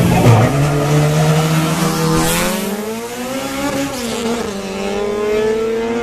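Two Honda B-series four-cylinder engines launching hard from a standing start about half a second in, revving up through the gear with rising pitch. A shift about four seconds in drops the pitch before it climbs again.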